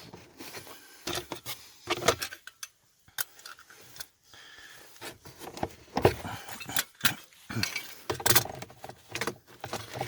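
Plastic glovebox lid of a Ford Focus 2 being pulled off its hinge hooks by hand. Irregular plastic clicks, knocks and rattles come with short gaps between them, the loudest about two, six and eight seconds in.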